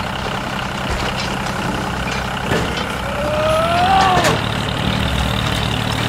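Tractor engine running steadily with a low, even rumble. A short voice-like cry rises and falls in pitch about three to four seconds in.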